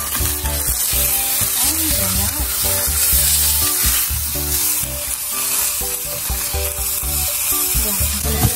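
Bánh xèo crepe sizzling steadily as it fries in oil in a frying pan, with background music playing under it.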